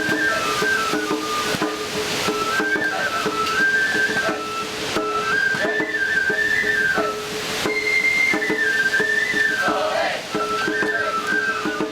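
Shishimai festival music: a bamboo transverse flute plays a high melody that steps between a few notes, over a steady held tone and regular drum strokes.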